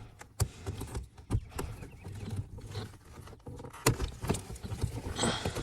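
Scattered plastic clicks, taps and rattles of wiring harness connectors being handled and plugged in, with a few sharper clicks among faint rustling.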